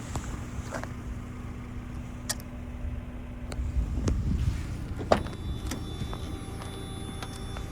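Handling sounds from a 1997 Mazda MX-5 Miata: a steady hum for about four seconds, several sharp clicks and knocks, the strongest about five seconds in, then a faint steady high tone, over a low rumble.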